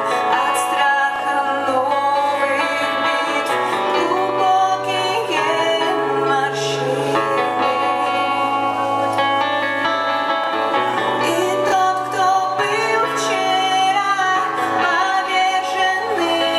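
A band playing a song live, with a sung vocal line over guitar and sustained low bass notes, and occasional cymbal crashes.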